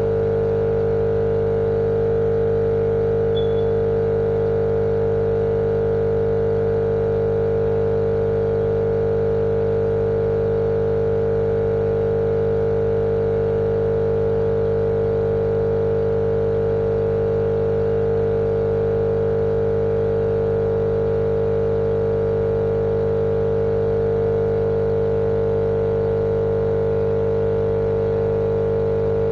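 Steady, unchanging machine drone with a strong hum, used as sleep noise for babies; it holds the same level and pitch throughout.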